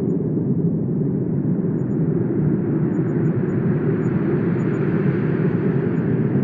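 Wind blowing steadily with a deep, even rush; a gust builds its higher hiss about halfway through and eases near the end.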